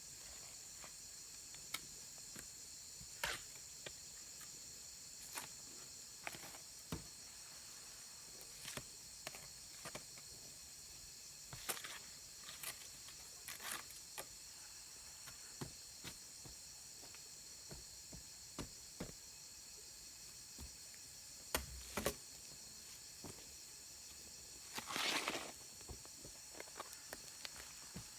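Steady high-pitched insect chorus, with scattered light clicks and knocks and a brief rustling scrape about 25 seconds in.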